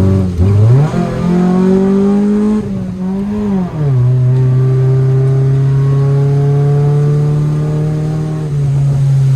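Car engine accelerating through the gears: the engine note drops sharply at an upshift about half a second in and again near four seconds in, climbing slowly between shifts, then eases down once more near the end.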